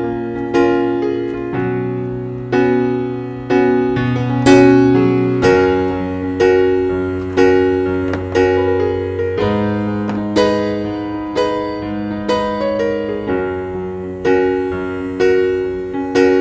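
Background piano music: a slow, calm piece of struck notes over held bass notes.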